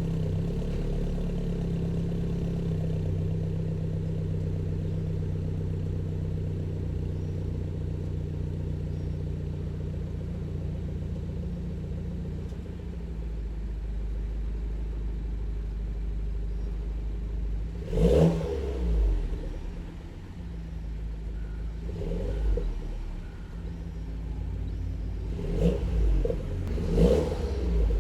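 BMW F30 320i ED exhaust, with an extra outlet pipe off the rear muffler and a Stage 1 tune, idling steadily. About two-thirds of the way in it is revved sharply, followed by a smaller blip and then a few quick throttle blips near the end.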